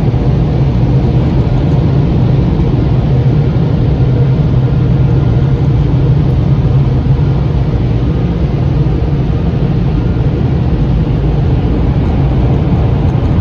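Automatic car wash air-dryer blowers running, a loud steady rushing drone heard from inside the car's cabin as the air blasts over the car.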